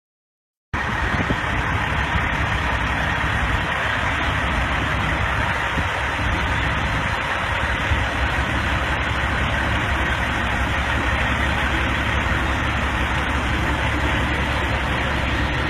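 Steady vehicle engine and road noise, cutting in abruptly about a second in and running evenly with a deep rumble until a sudden cut at the end.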